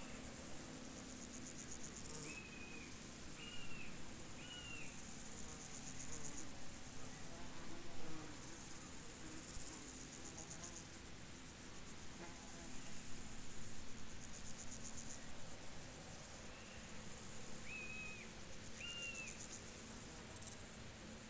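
Field insects trilling in repeated bouts of rapid high-pitched pulses, each bout a few seconds long. Short high calls come in sets of three twice, and a faint steady low hum runs underneath.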